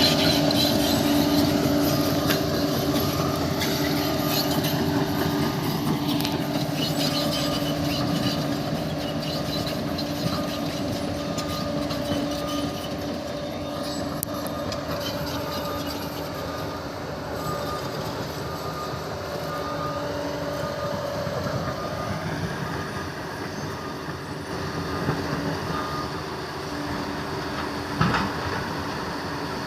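Crawler bulldozer running steadily, its engine and track running gear giving a held drone with a faint repeating pattern, and a single sharp knock near the end.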